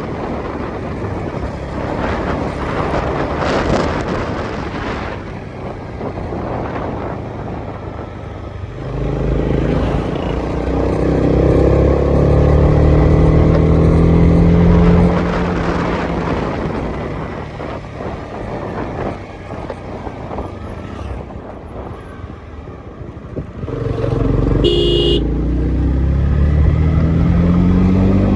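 A Honda CB300R's single-cylinder engine running on the move, with wind and road noise. The engine revs climb about nine seconds in, ease off, and climb again near the end. A brief high-pitched tone sounds about twenty-five seconds in.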